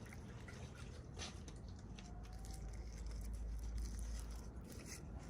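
Faint handling noises: light taps and soft rustling of small objects over a low steady hum.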